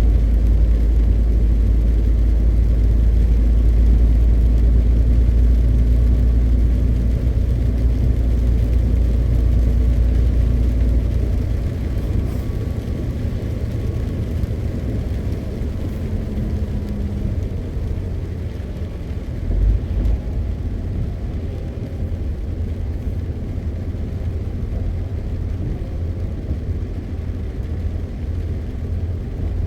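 MAN TGX 520 truck on the move: steady diesel engine drone with tyre and road noise. The deep drone eases about a third of the way in, and there is a brief low bump about two-thirds of the way through.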